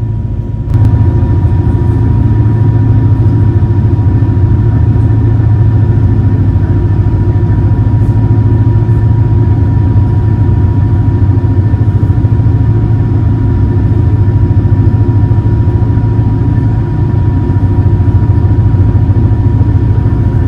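Super Jet high-speed passenger boat's engines running at a steady, loud, low drone, with a thin steady whine above it, heard on board. It cuts in just under a second in.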